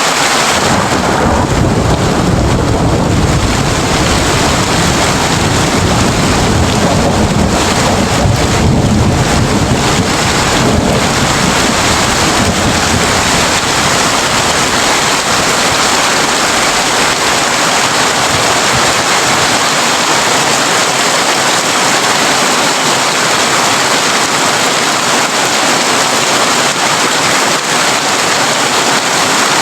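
Heavy rain falling steadily on a tin roof, with a low rumble of thunder through roughly the first ten seconds that fades out by about twelve seconds in.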